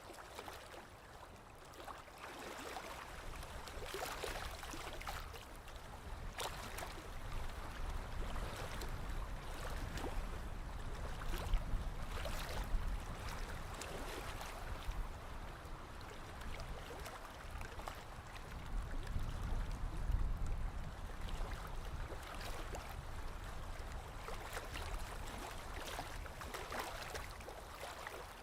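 Small lake waves lapping against the shore: a steady wash of water broken by many irregular little splashes, swelling louder twice, at about twelve and twenty seconds in.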